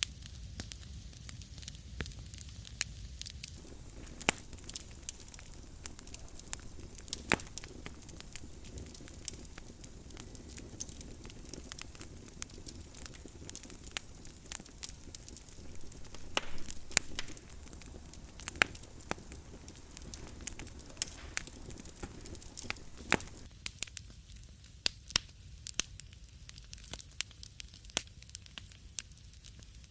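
Wood fire burning in a fireplace, crackling with irregular sharp pops and snaps over a steady low rumble. The soft hiss under the pops thins out near the end.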